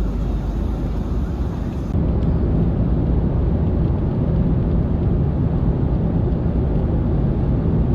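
Steady low rumble of a moving vehicle heard from inside, with no distinct events. About two seconds in it turns slightly louder and loses its highest hiss.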